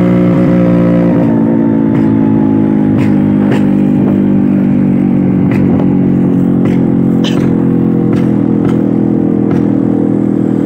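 Vintage Vespa two-stroke scooter engine running steadily while riding, its note easing down slightly about a second in, with a few sharp clicks or rattles over it.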